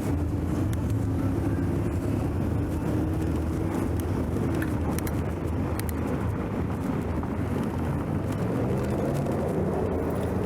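Steady road-traffic noise heard from a moving bicycle: a low rumble of vehicles with a faint engine hum that drifts in pitch and fades about halfway through, along with scattered small clicks.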